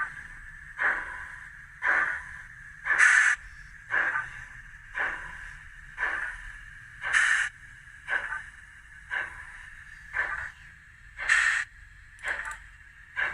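Sound decoder in a Bachmann USA tank model steam locomotive playing slow exhaust chuffs through its small speaker, about one a second, with every fourth chuff louder.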